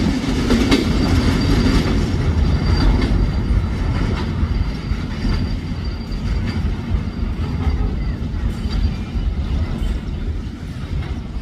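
Train rolling past close by: a heavy low rumble with wheels clacking over rail joints and a thin high wheel squeal in the first half, easing off slightly near the end.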